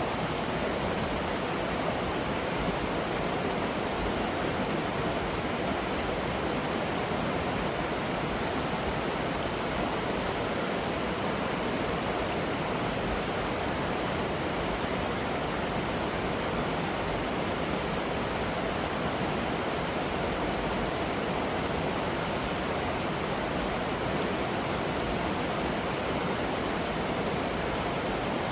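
Waterfall with a steady rush of falling water, unchanging throughout.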